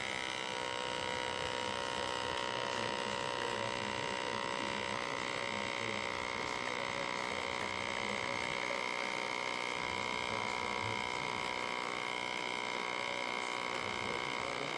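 Small electric pump of a WACACO portable espresso maker running steadily while brewing, a constant, even hum.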